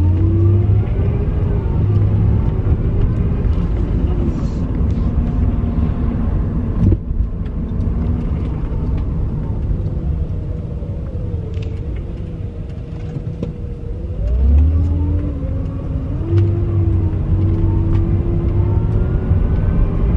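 Car engine and road rumble heard from inside the moving car. The engine pitch rises as the car pulls away near the start, settles and drops back, then rises again about two-thirds of the way through.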